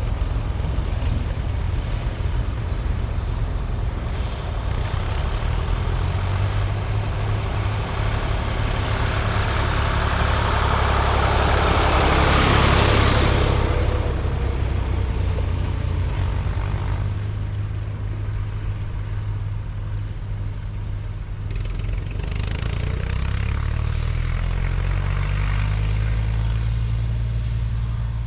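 Vintage tractor engines running as tractors drive past one after another. One passes close about midway, loudest there with tyre noise, and another comes up near the end with its engine note rising.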